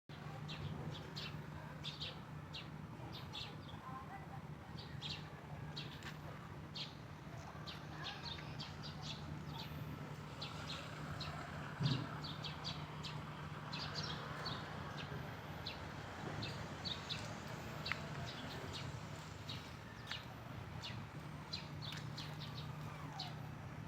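Many small birds chirping in short, high calls, over a steady low hum, with one brief knock about halfway through.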